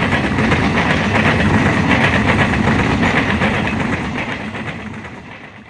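Passenger train passing at speed: a steady rush with wheels clattering over the rail joints, fading away over the last second or two.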